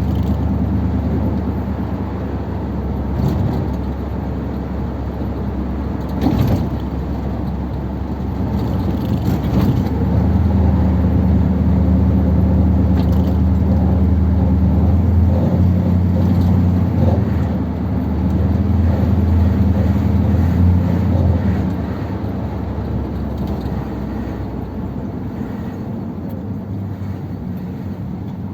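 1957 Ford Thunderbird's Y-block V8 running under way, its four-barrel carburettor working on the two primary barrels only. The engine pulls louder for about ten seconds in the middle, then eases off.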